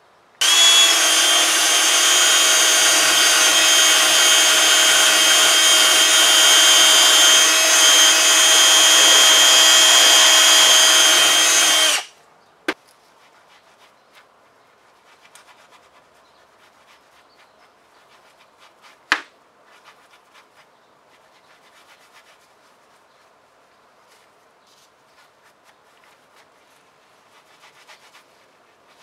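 Electric power tool running steadily on metal, a loud whirring hiss with a steady whine, which cuts off about twelve seconds in. Two sharp clicks and faint handling noises follow.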